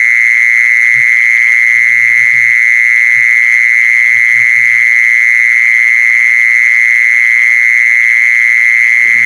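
A loud, steady high-pitched tone throughout, with short low calls at intervals: about a second in, around two seconds, near three, a quick few between four and five seconds, and again near the end. These are typical of an animal lure call.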